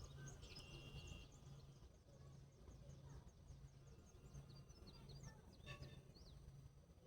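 Faint pondside ambience with scattered small bird chirps and a short held high whistle about a second in, over a low hum that pulses on and off about twice a second.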